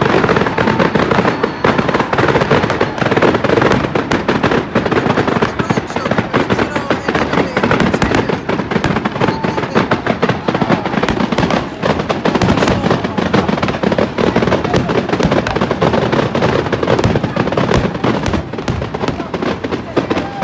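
Fireworks going off in a dense, unbroken barrage of rapid crackles and bangs.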